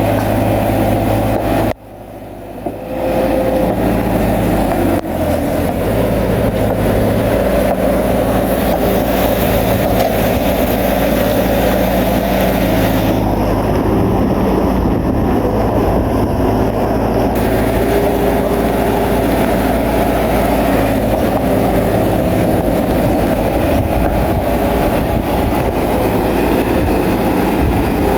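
Crawler bulldozer's diesel engine running steadily under load, with the clatter of its steel tracks. The sound drops out suddenly about two seconds in and builds back up within a second.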